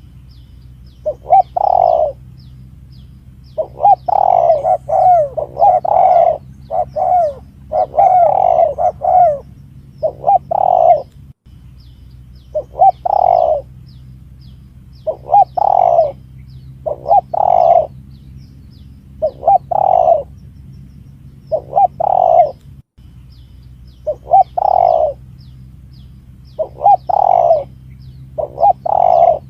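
Spotted dove (tekukur) cooing over and over in short phrases, each a second or two apart, played as a lure call to draw wild doves in. Faint high chirps from small birds and a steady low hum sit underneath.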